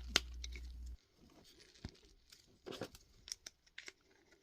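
Small plastic Plus-Plus building pieces being handled and fitted together by hand: a handful of scattered soft clicks and rustles. A low hum stops about a second in.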